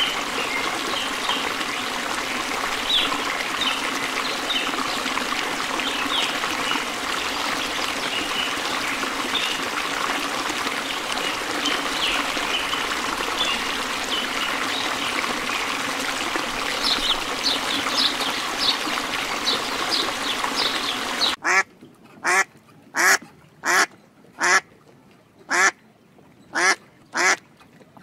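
A flock of ducks chattering over running water, many calls overlapping. About twenty seconds in it cuts to a single duck quacking about ten times in an even rhythm.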